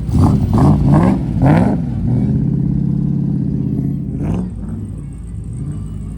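A car engine blipped several times in quick succession, then settling to a steady idle.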